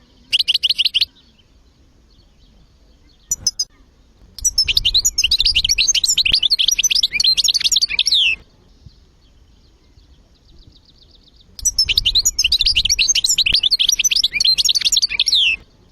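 European goldfinch singing: a short burst near the start, then two long phrases of rapid twittering notes, each about four seconds, with a quiet pause between them.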